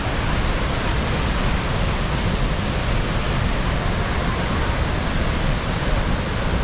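Rhine Falls waterfall: a loud, steady rush of heavy falling water.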